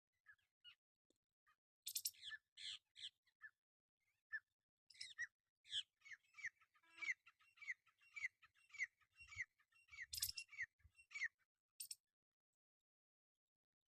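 Parrot calling: a few harsh calls about two seconds in, then a run of short, downward-sliding squawks at about two a second that stops a couple of seconds before the end.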